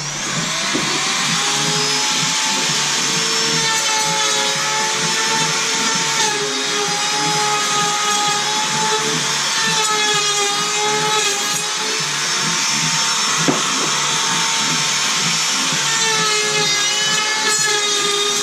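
Wood router spinning up at the start, then running with a steady high whine whose pitch wavers slightly at times.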